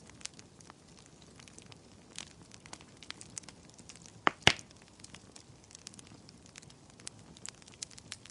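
Wood campfire crackling: scattered small sharp snaps over a faint hiss, with two loud pops close together about four and a half seconds in.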